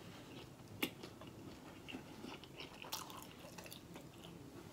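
Close-miked chewing of a bite of fried corned beef egg roll: soft wet mouth sounds, with a sharp click about a second in and a few more clicks around three seconds in.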